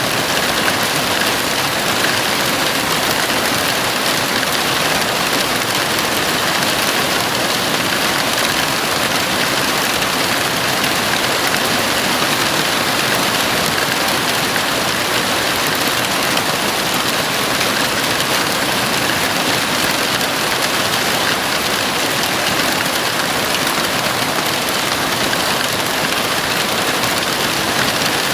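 Heavy rain falling steadily on a house roof, a dense unbroken hiss of drops.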